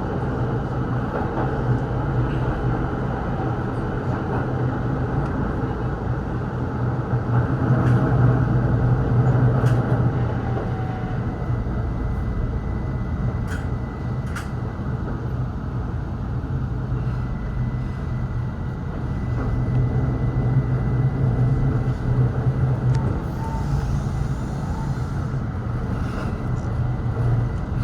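A train running, heard from inside the car: a steady rumble of wheels on rail that swells and eases a few times, with a thin high whine joining about halfway through.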